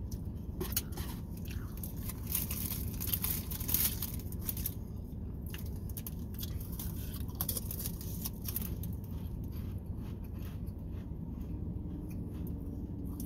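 Crackers being bitten and chewed close to the microphone: crisp crunching clicks, busiest in the first few seconds and then sparser. A steady low hum runs underneath.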